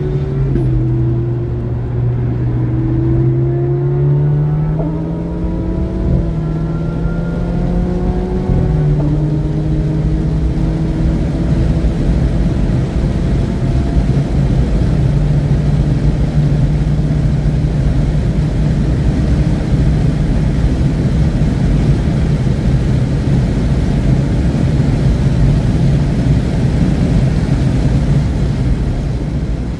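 A 2017 Alfa Romeo Giulia Ti Q4's turbocharged 2.0-litre four-cylinder engine, fitted with an aftermarket street exhaust, running hard on a race track. Its note rises and falls in steps through the first ten seconds, then holds a steady drone under a loud rush of wind and road noise.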